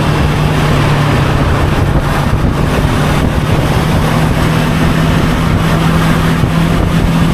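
Motorcycle engine running at a steady cruising speed, one constant engine note that does not rise or fall, under a steady rush of wind and road noise.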